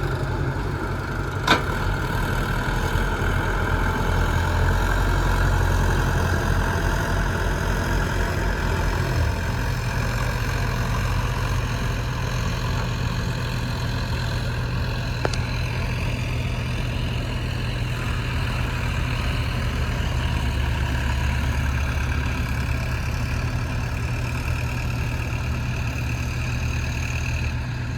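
Diesel engines of tractors and a JCB backhoe loader running steadily at work in mud, the low engine note shifting about nine seconds in. A single sharp click about a second and a half in.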